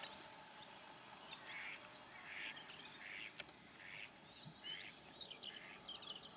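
Faint wetland birdsong: short, harsh bird calls repeating irregularly, about two a second, with a few quick chirps mixed in.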